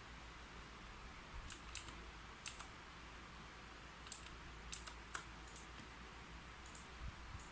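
Scattered keystrokes on a computer keyboard: about a dozen crisp clicks at an uneven pace, some in quick clusters, over a faint steady hiss.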